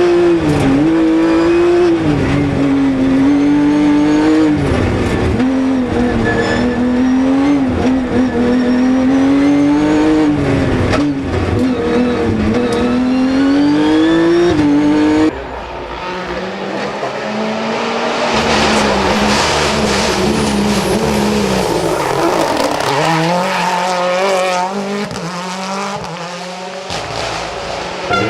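Race car engines at full throttle. For the first half one engine climbs and drops in pitch through repeated gear changes. About halfway through, the sound cuts abruptly to a quieter shot of another engine revving up and down under a hiss of tyre noise.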